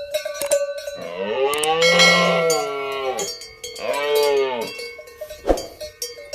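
A cow mooing twice, one long call and then a shorter one, with a cowbell clanking at the start and once more near the end.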